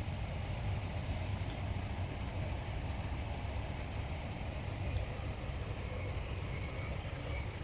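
Jeep engine idling with a steady low rumble.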